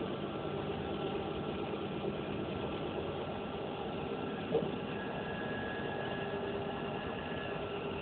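Steady running noise inside a moving passenger train carriage: wheels on rail and motor hum, with a faint steady whine above it. A single short knock about halfway through.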